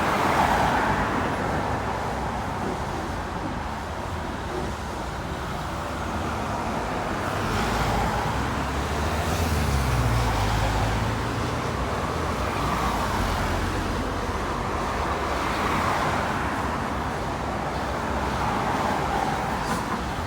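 Road traffic passing: a steady wash of car tyre and engine noise, with a deeper engine rumble swelling from about eight seconds in, its pitch dropping slightly near eleven seconds before it fades.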